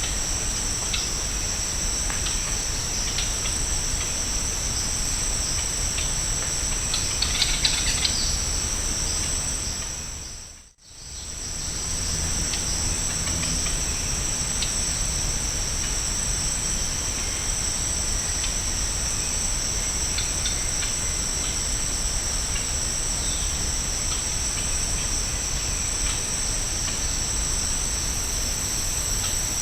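Steady shrill chorus of tropical insects, holding two high pitches without a break. A brief burst of chirps stands out about a quarter of the way in. About a third of the way in the sound fades out to near silence and returns within a second.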